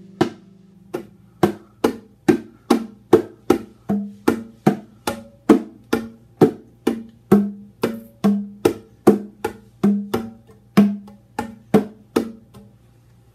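Bongo drums played solo: a run of hand strikes, about two to three a second in an uneven pattern, alternating between a lower and a higher drum and stopping shortly before the end.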